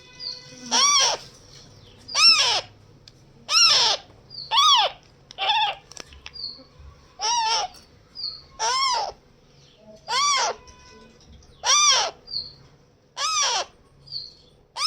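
Pet parrot calling loudly over and over, about one call a second, each call rising then falling in pitch, with short high chirps in between.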